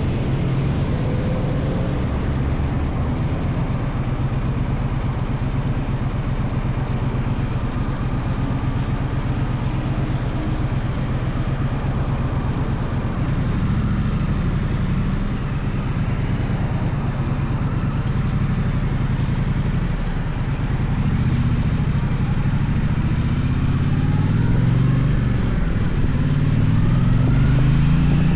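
Gaokin GK1200 motorcycle engine running under way, steady for most of the stretch, then rising and falling in pitch with throttle changes over the last several seconds.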